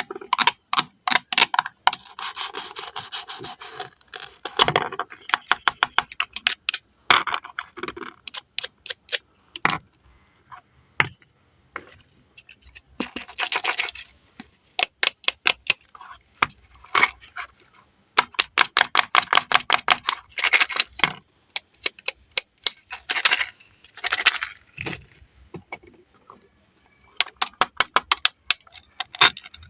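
Velcro joints of toy fruits tearing apart as a toy knife slices through them: runs of rapid crackling ticks, one run after another, with short pauses between cuts.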